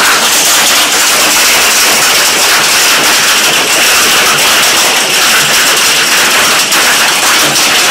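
Hail coming down hard: a loud, continuous clatter of countless hailstones striking.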